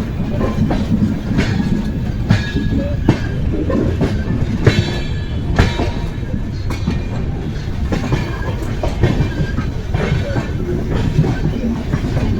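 Amrit Bharat Express passenger train running on the track: a steady low rumble with irregular clacks and knocks as the wheels pass over rail joints.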